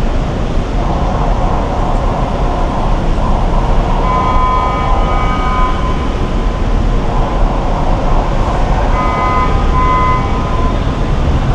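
Steady, loud road and engine noise heard from inside a taxi in traffic, with a low rumble. A steady high tone sounds twice over it, once about four seconds in and again near the end, each for a second or two.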